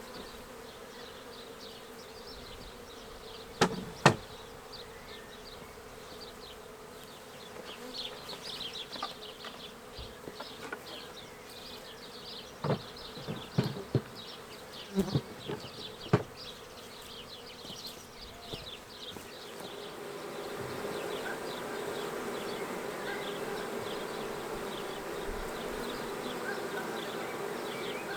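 Swarm of honey bees buzzing, a steady drone that grows louder about twenty seconds in. A few sharp knocks come near the start and again in the middle.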